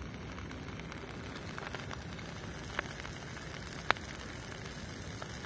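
Sealed tin of food coming to the boil over a tiny fire: a steady soft hiss, with two sharp clicks, the louder about four seconds in. The tin is unvented, so steam is building up inside it.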